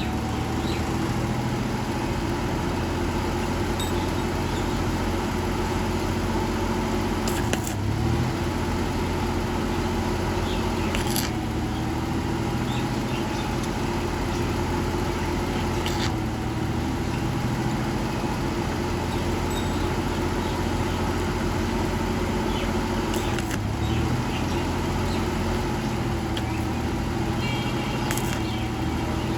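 A machine running steadily with a wavering hum, with a few sharp clicks and knocks.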